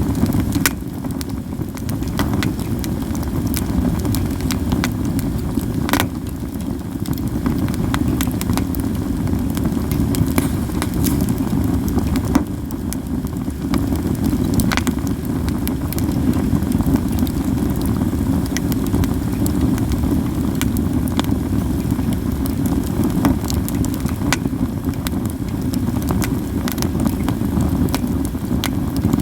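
Campfire of katsura wood burning, with scattered crackles and sharp pops over a steady low rumble; one loud pop about six seconds in.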